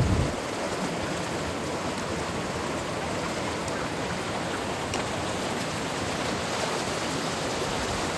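Steady rush of a rocky stream's water over a rock water slide, an even hiss that does not change. A brief low bump sounds at the very start.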